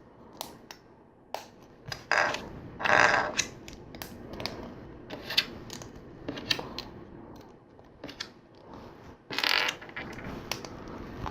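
Plastic LEGO bricks being handled and snapped together: scattered sharp clicks of pieces pressing on, with short rustling bursts of parts being sorted, louder about two to three seconds in and again near the end.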